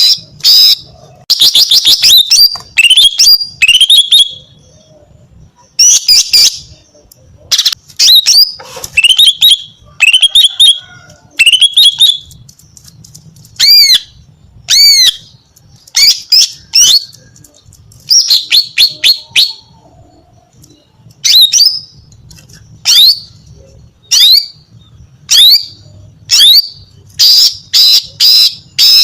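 Female green leafbird (cucak ijo) calling loudly: quick clusters of short, high chirps and curved, down-slurred whistled notes, broken by brief pauses. These are the female's calls that rouse and draw in a male.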